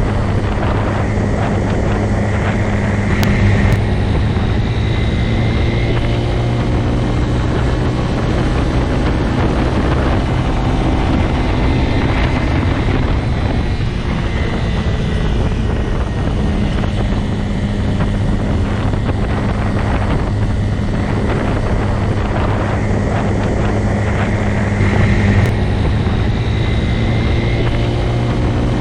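Motorcycle engine running at a steady speed under a constant rush of noise, with slight swells in loudness about three seconds in and again near the end.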